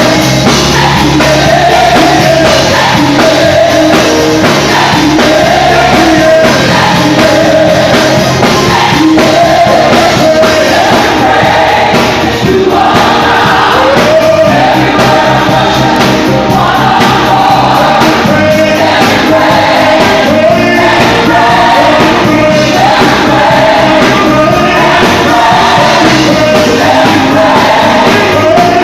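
Live gospel worship music: a choir and lead singer singing over a band with drums, loud and continuous.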